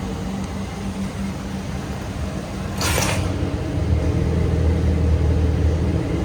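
2003 Chevy Silverado 1500's 5.3-litre V8 engine running steadily. About three seconds in there is a short burst of hiss, and from then on the engine runs louder with a deeper note.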